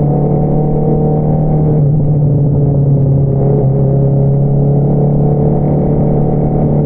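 Honda CBR650R's inline-four engine through an Akrapovič single-outlet exhaust, running at steady revs under way, with a brief dip about two seconds in.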